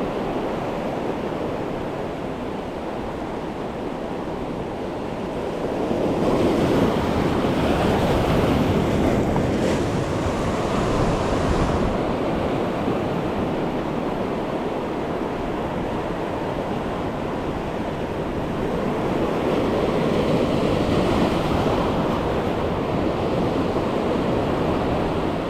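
Ocean waves washing against a rocky reef shoreline, with wind buffeting the microphone; the surf swells louder a few seconds in and again past the middle.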